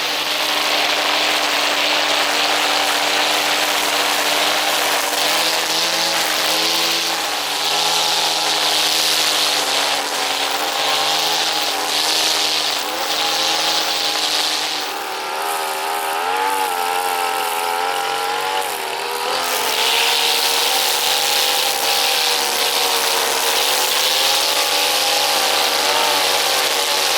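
Brush cutter engine running at high speed while cutting grass, its pitch wavering with the load. A little past halfway the engine speed drops briefly, then picks up again.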